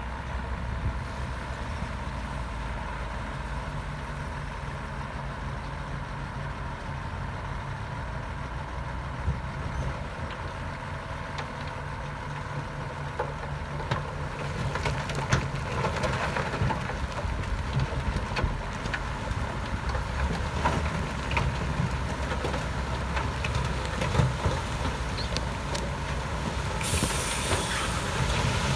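Heavy diesel earthmoving machinery running steadily with a low engine hum. From about halfway, clanks and rattles build up, and near the end a loud hiss sets in.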